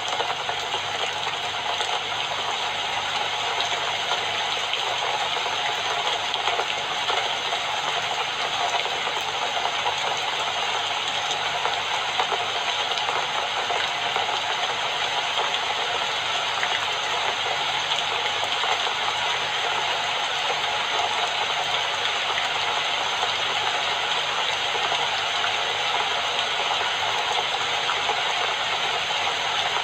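Steady rain falling, an even patter of drops that doesn't change.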